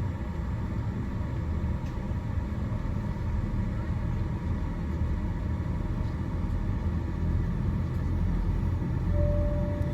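Steady low rumble of cabin noise inside a Boeing 787-8 airliner on the ground, with a brief steady tone near the end.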